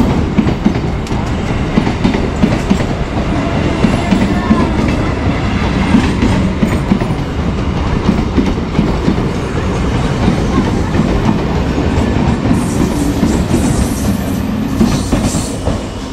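Passenger train pulling in along a station platform, its wheels clattering over the rail joints in a dense run of clicks. A higher hiss joins in for the last few seconds as it comes in to stop.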